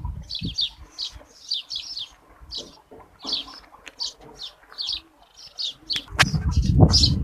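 Small birds chirping in quick, repeated high notes, many per second. A low rumbling noise comes in about six seconds in and runs under the chirps to the end.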